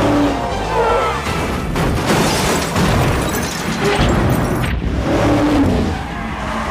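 Car-chase movie soundtrack: car engines and squealing tyres mixed with a music score, with a denser, louder stretch of noise in the middle.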